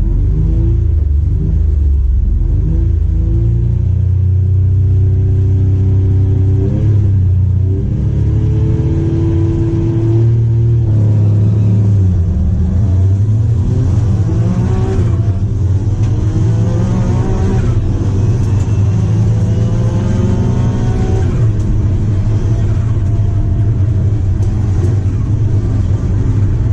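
Daihatsu Charade GTti's 993cc turbocharged three-cylinder engine heard inside the stripped race-car cabin, accelerating hard through the gears. Its pitch climbs and drops back at each upshift, several times over, with a heavy low drone underneath.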